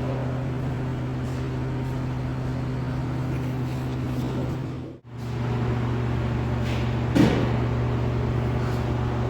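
A machine motor running with a steady hum, broken off by a short gap about halfway through. A single knock follows near the end.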